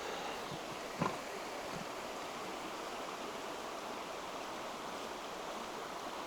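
Steady rushing of a mountain river's flowing water, with one short sharp sound about a second in.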